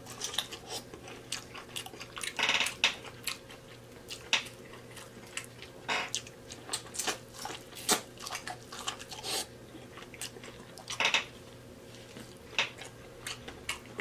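Mouth sounds of biting and chewing sauce-coated corn on the cob: wet lip smacks and chewing clicks at irregular intervals, with a louder run of smacks about two and a half seconds in and again near eleven seconds.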